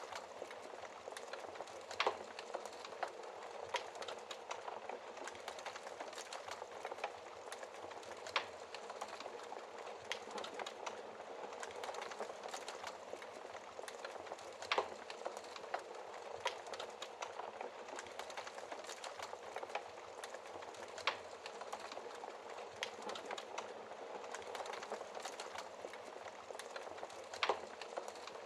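Wood fire burning in a fireplace: a steady crackle full of small ticks, with a few louder sharp pops about every six seconds.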